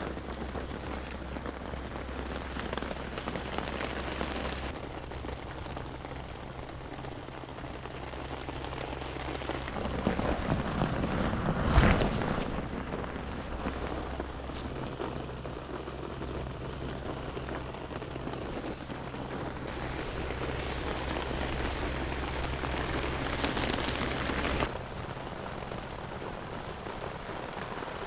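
Rain falling steadily, with a louder swell of rustling noise peaking about twelve seconds in.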